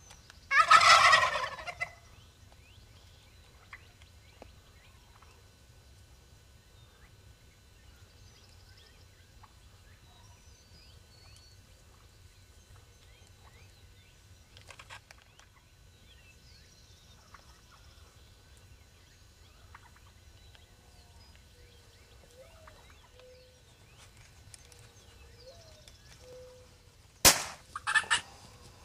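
Rio Grande wild turkey gobbling loudly, a rapid rattling gobble near the start and another near the end, just after a sharp click. In between there are only faint scattered bird calls.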